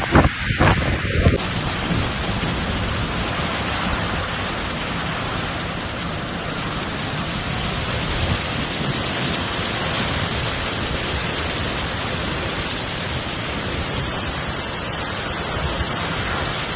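Steady rushing roar of a flooded, swollen river pouring through a bridge, with wind buffeting the microphone in the first second or so.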